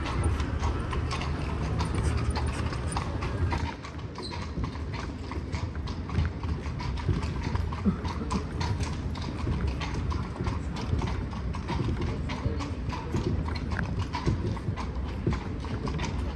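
Horse hooves clip-clopping as the horse pulls a carriage, many overlapping hoof strikes. Under them is a low rumble that drops away about four seconds in.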